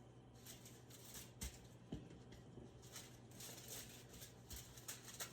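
Faint soft patting of raw chicken breast fillets being dried off, with a few light taps.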